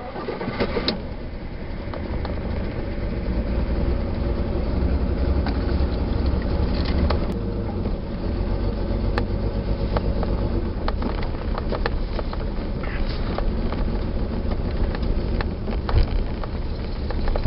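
Rolls-Royce 4-litre six-cylinder petrol engine of a Vanden Plas Princess 4 Litre R pulling away and driving, heard from inside the cabin, climbing in level over the first couple of seconds and then running steadily. A serious exhaust blow runs through the sound, and the engine is running on only five cylinders. Scattered light knocks and rattles come through as it drives.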